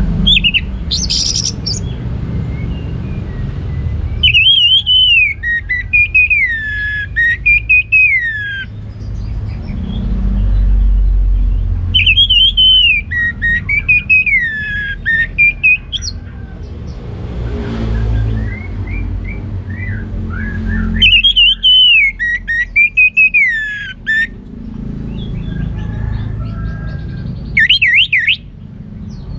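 Orange-headed thrush (anis merah) singing its full, open song: three long phrases of clear, sweeping whistles, each a few seconds long with pauses of several seconds between, and a short burst near the end. A low steady rumble lies underneath.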